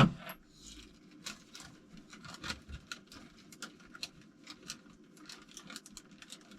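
Light, irregular clicks and rustles of small engine parts being picked up and handled while someone searches for a gasket, over a low steady room hum.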